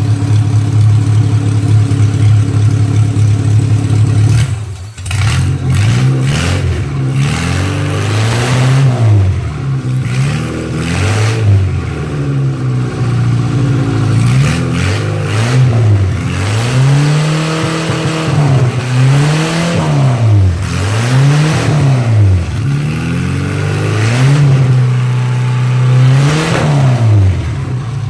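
Engine of a 1987 Dodge Raider mud-racing truck idling, then revved over and over, each blip of the throttle rising and falling in pitch, one every second or two.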